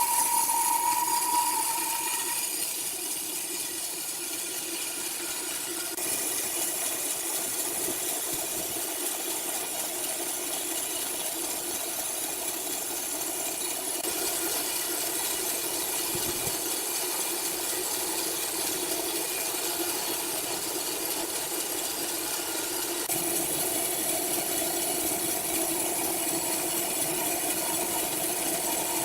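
Sawmill machinery running with a steady whine and hiss, its sound shifting a few times.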